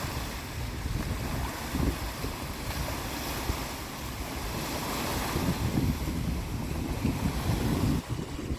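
Wind buffeting the microphone over the rush of sea waves. It eases shortly before the end.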